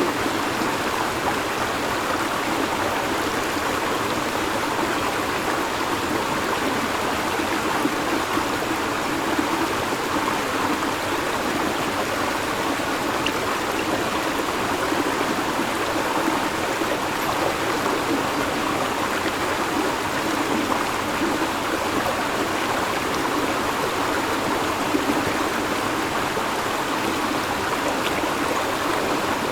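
A river or stream flowing steadily over rocks, an even babbling rush of water with no change.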